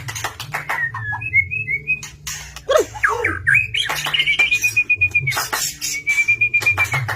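White-rumped shama (murai batu) in full song: quick whistled phrases, chatters and clicks, then two long held whistled notes in the second half.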